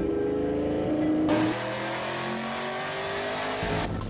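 Race car engine revving, its pitch sliding up and down, cut together from separate clips so the sound changes abruptly about a second in and again near the end.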